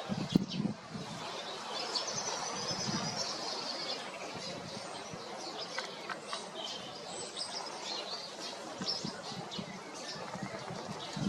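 Small songbirds chirping, with short high calls throughout and a longer trilling song phrase about two seconds in, over faint steady outdoor background noise.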